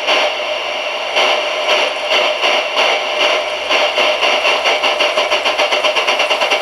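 Simulated steam exhaust chuffs from the sound-card speaker of a Märklin Gauge 1 Gt 2x4/4 Mallet tank locomotive model, over a steady steam hiss. The chuffs quicken steadily from about two a second to several a second as the regulator is opened and the locomotive gathers speed.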